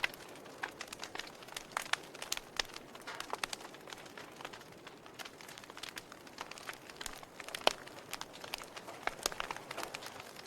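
Log fire crackling: irregular sharp pops and snaps of burning wood over a soft hiss, with one louder pop about three quarters of the way through.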